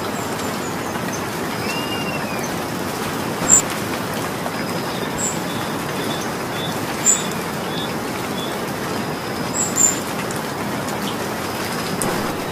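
Steady rainfall, with a few sharp louder drops landing close by, three of them standing out.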